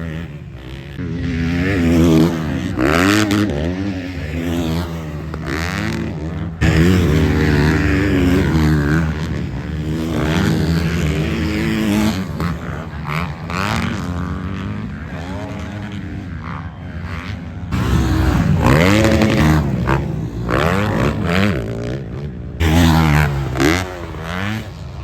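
Motocross bike engines revving hard and dropping back over and over as riders race, pitch rising and falling with each throttle burst, with sudden jumps in the sound about a third of the way in and again later where the shot changes.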